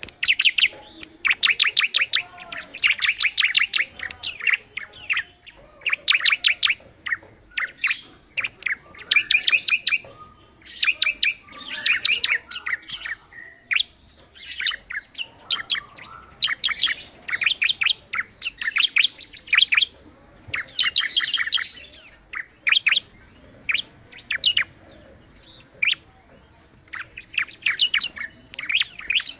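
Ciblek (prinia) songbird singing over and over: rapid runs of sharp, high chirping notes in bursts a second or two long, separated by short pauses.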